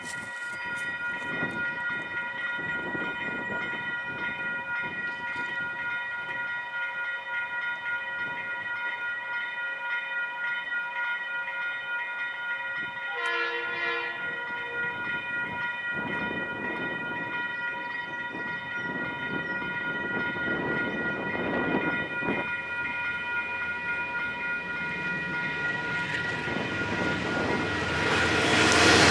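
Level crossing bells ring steadily as a train led by two KiwiRail DXC-class diesel-electric locomotives approaches. The locomotive sounds one horn blast of about a second, roughly halfway through. Near the end the noise of the oncoming train grows louder as it reaches the crossing.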